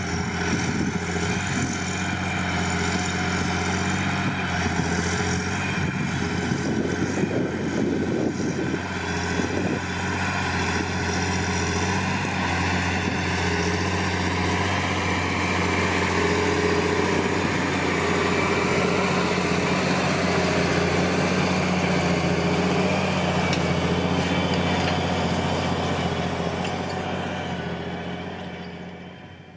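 John Deere 8520T crawler tractor's 8.1-litre PowerTech six-cylinder diesel running steadily under load while pulling a four-furrow plough, with a high whine above the engine note. The sound fades away near the end.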